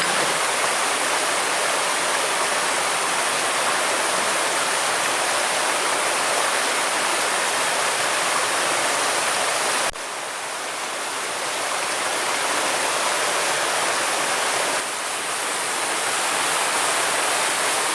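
Water of the Tretes waterfall falling and splashing in a steady rush. Its flow is low from the dry season. The level drops suddenly about ten seconds in and again near fifteen seconds, each time recovering over a few seconds.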